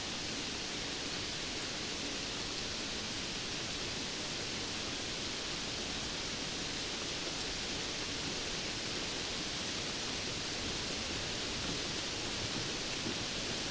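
Steady rainfall: an even, unbroken hiss with no single drops standing out and no thunder.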